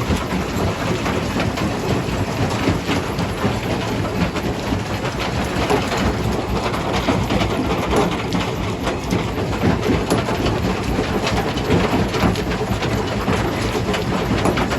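Jaw crusher running under load, crushing rock: a continuous heavy machine rumble with dense, irregular knocking and clattering of stone.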